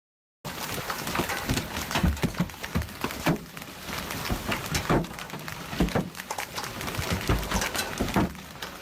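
Hailstorm: large hailstones striking hard surfaces in a dense, irregular clatter of sharp knocks, starting abruptly about half a second in.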